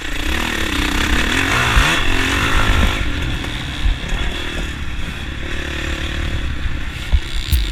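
Dirt bike engine riding along a trail, its pitch rising and falling with the throttle in the first few seconds, then running more steadily.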